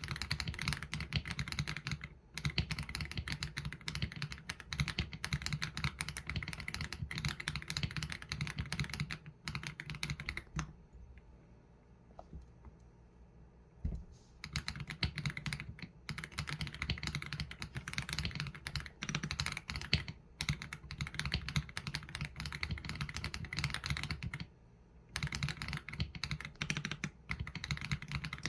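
Typing on an AULA F87 Pro mechanical keyboard with Leobog Graywood V3 linear switches and PBT keycaps: a quick, steady run of keystrokes, with a pause of about three seconds a little before the middle and a short break near the end.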